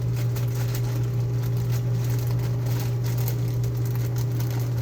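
Steady low hum that does not change, with faint light ticks and rustles of handling over it.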